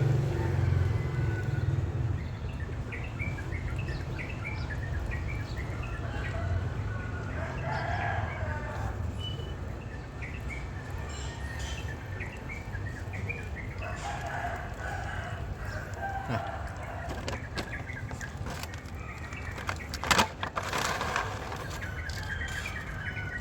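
Chickens clucking and a rooster crowing over a low steady hum, with many short high chirps, and one sharp knock about 20 seconds in.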